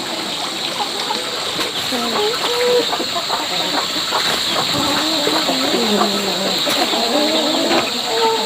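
Poultry calling: several birds clucking over one another, starting about two seconds in.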